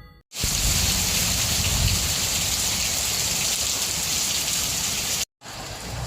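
Heavy rain falling, a steady hiss. It breaks off for a moment about five seconds in and goes on a little quieter.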